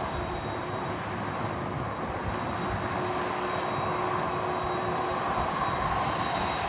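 Boeing 747-400 freighter's four jet engines running as it taxis: a steady rush with a thin high whine, growing a little louder toward the end.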